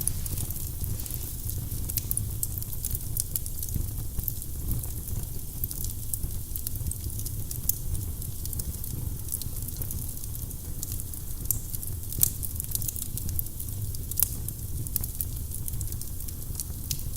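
Firewood burning in a fireplace: a steady low rumble of flame with irregular sharp crackles and pops, one louder pop about twelve seconds in.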